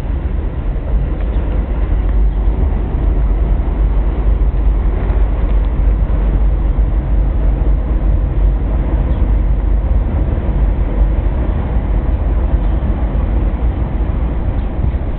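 BMW 330i E46 on the move, giving a steady, loud low rumble of road and running noise.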